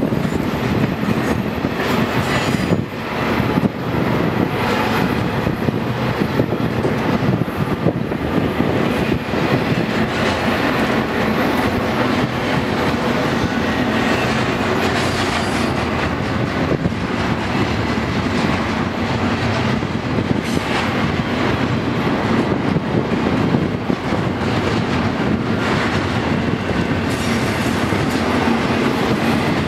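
Freight train of double-stack container cars and trailer-carrying flatcars rolling past: a steady, loud rumble of steel wheels on rail, broken by irregular clacks.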